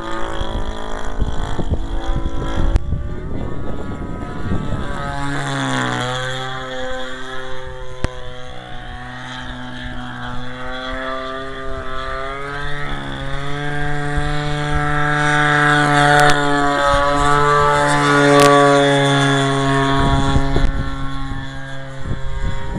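Radio-controlled model plane's 30cc two-stroke gasoline engine, converted from a Homelite string trimmer, running in flight; its pitch drops and rises several times as the throttle changes and the plane passes. Wind buffets the microphone throughout.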